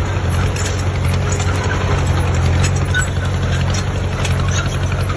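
Heavy diesel engine of construction machinery running steadily, a low hum, with scattered light clicks and rattles over it.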